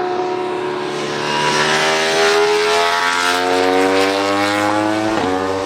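MotoGP racing motorcycle engine under hard acceleration, its pitch climbing steadily, with a brief break about five seconds in like a gear change.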